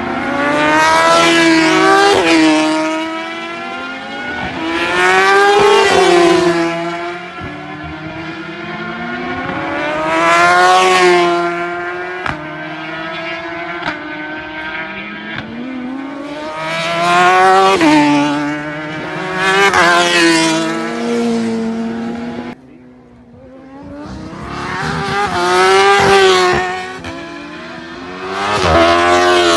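Road-racing motorcycles accelerating hard out of a slow corner and passing one after another, about seven in all. Each engine note climbs, drops at an upshift and climbs again as the bike goes by. The sound cuts off abruptly about three-quarters of the way through before the next bike arrives.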